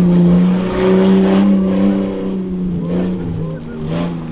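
Off-road race car's engine running at high, steady revs, easing off a little about halfway through.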